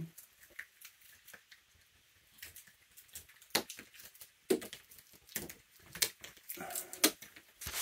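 Raccoons eating peanuts: irregular crunching and cracking with small sharp clicks and rustles, growing busier in the second half.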